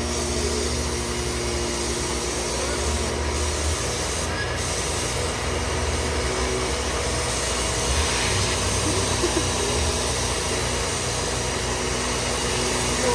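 Steady hum of an idling engine under a constant hiss, with faint voices.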